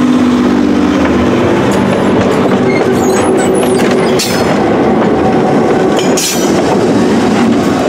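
Passenger train passing close by, its steel wheels clattering over the rail joints as the coaches and then the trailing diesel locomotive go past. There are two brief high-pitched screeches about four and six seconds in.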